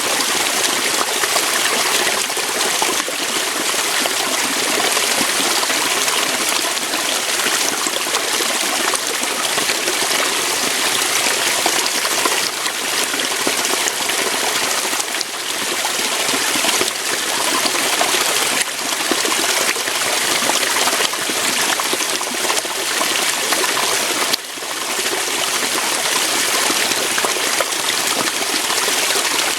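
Small waterfall, water flowing and splashing over rocks in a steady, dense rush.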